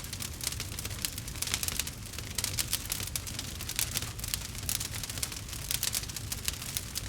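Campfire crackling: a dense, fast run of small pops and snaps, with a low steady rumble underneath.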